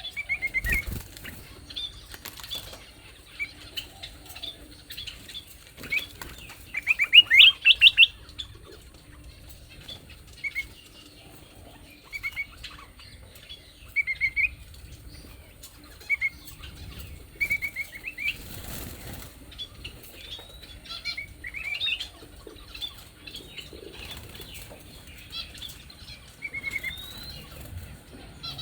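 Songbirds calling with short whistled chirps and slurred notes, with a fast run of loud rising notes about seven seconds in. A few brief wing flutters are mixed in.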